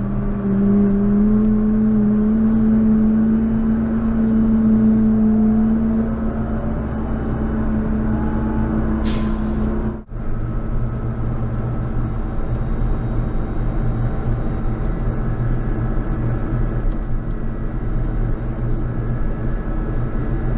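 JCB Fastrac 4220 tractor's diesel engine running under load, a strong drone whose pitch edges up slightly and then falls away over the first ten seconds. A short air hiss comes about nine seconds in, like air brakes venting. After a brief dropout the engine runs on steadily.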